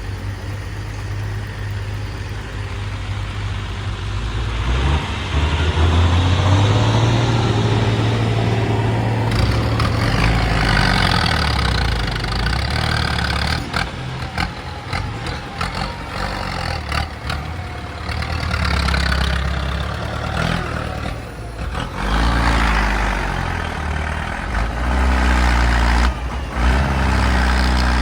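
Heavy diesel earthmoving machinery working: a low engine hum that revs up and down under load, with repeated clanking and rattling of metal through the middle.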